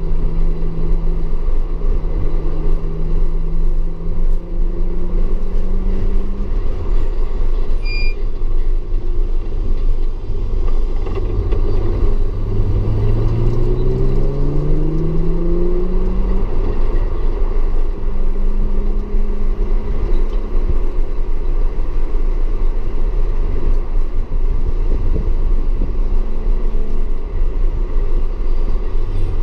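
Audi S4's engine under throttle on a racetrack, its pitch slowly climbing, dropping back, then rising again in a strong pull through the middle before easing off. Heavy rumble of road and rain noise runs underneath.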